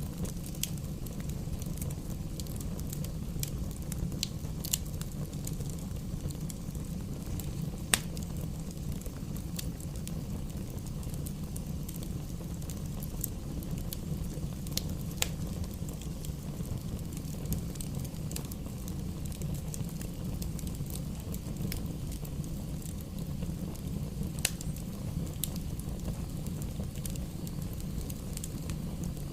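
Campfire burning, with scattered sharp crackles and pops over a steady low rumble; one louder pop about eight seconds in.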